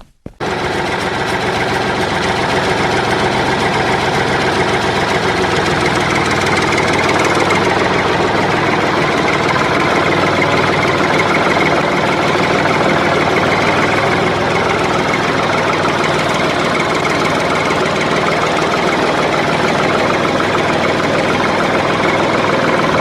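An engine running steadily at idle, with an even, dense note, cutting in abruptly at the start.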